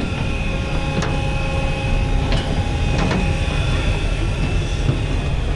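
City street ambience: a steady traffic rumble with a few sharp clicks.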